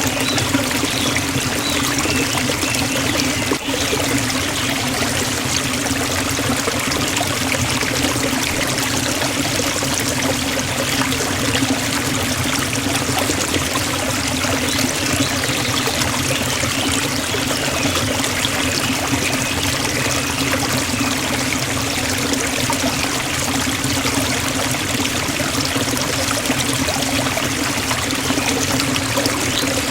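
Waterfall in a forest, water falling and splashing in a steady, continuous rush, with one brief dip in level about three and a half seconds in.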